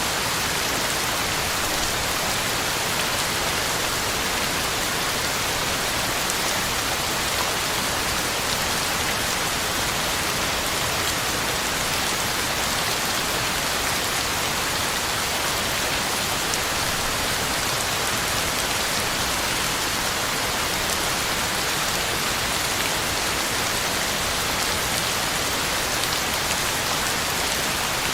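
Heavy, steady rain falling on the ground and leaves, a dense even hiss with fine pattering drops and no let-up.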